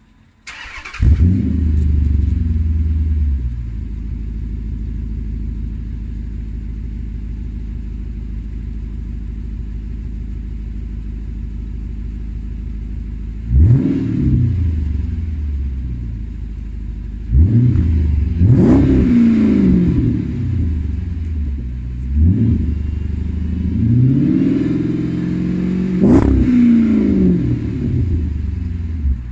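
Chrysler 300C's 5.7 HEMI V8 through a Fox exhaust with the resonator deleted, an X-pipe and stainless mufflers. It starts about a second in, flares and settles to a steady idle, then is blipped about four times in the second half, each rev rising and falling quickly.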